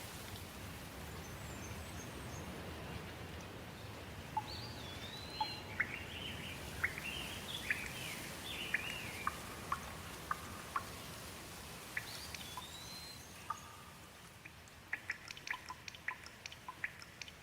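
Steady rain with songbirds chirping repeatedly over it. Near the end the rain fades and a quick patter of individual drips takes over.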